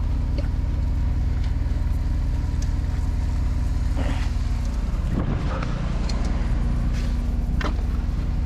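An engine running steadily at idle, a constant low hum. From about halfway through come a few short knocks and scrapes of hand work.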